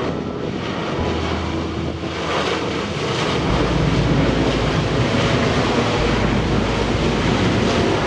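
Boeing 737-800 airliner's twin turbofan jet engines roaring on the runway, a steady rushing noise that grows louder about three seconds in.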